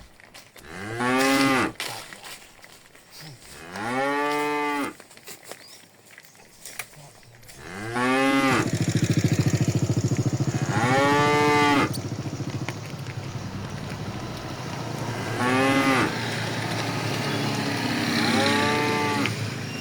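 Cattle mooing: about six separate moos, spaced a few seconds apart. A steady low rumble starts about eight seconds in and runs under the later moos.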